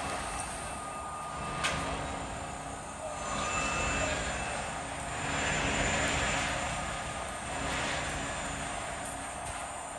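Covered hopper cars of a Norfolk Southern grain train rolling past on the rails: a steady rumble of wheels on track that swells and fades every couple of seconds, with one sharp click about two seconds in.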